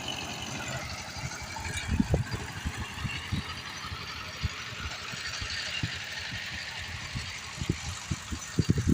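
Power tiller's diesel engine running, with uneven low thumps that bunch up louder about two seconds in and again near the end.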